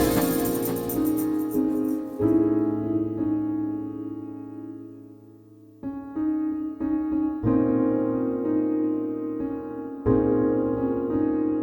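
Background piano music: slow sustained chords that fade almost away about five seconds in, then start again with new chords.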